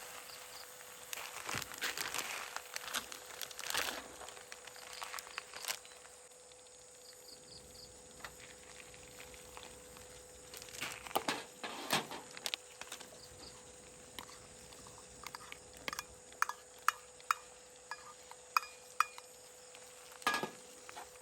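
Light clinks, knocks and rustling of objects being handled, busiest at the start and again around the middle, with a run of sharp ticks near the end.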